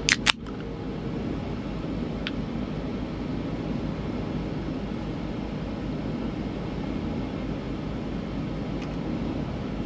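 Steady low hum of an idling semi truck, with two sharp clicks in the first half second and a faint tick a couple of seconds later.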